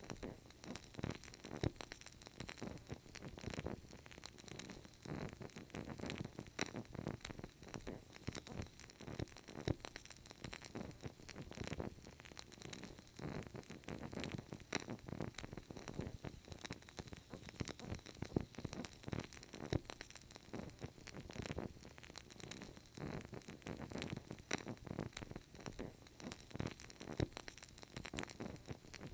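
Burning candle flame crackling: a dense, irregular run of faint small crackles and pops, with a few louder pops scattered through.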